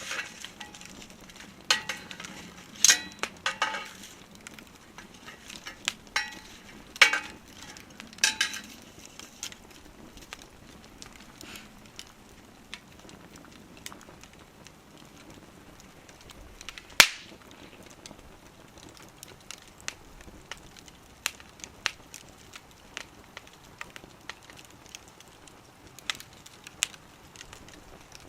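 Wood fire crackling in a small wood stove, with scattered sharp pops and one loudest pop about halfway through.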